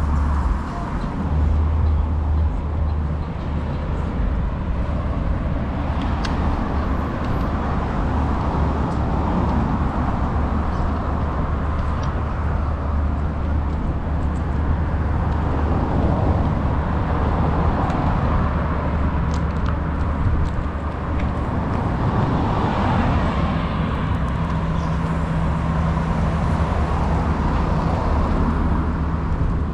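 An engine running steadily, with a constant low hum under a wash of noise.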